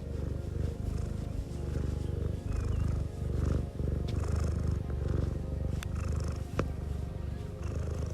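Domestic cat purring close to the microphone: a steady low rumble that breaks briefly about once a second as the cat breathes.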